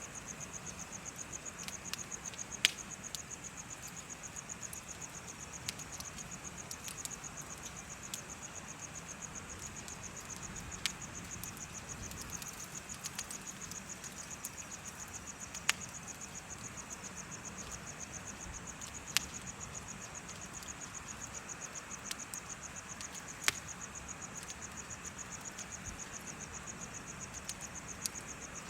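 Crickets chirping in a steady, rapid high trill, over the soft hiss of a bonfire with a handful of sharp pops from the burning wood.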